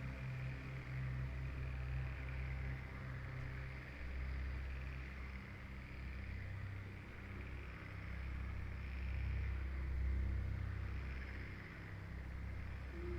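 Slow ambient music of held low drone notes that shift every few seconds, over a steady, gently swelling hiss of forest ambience.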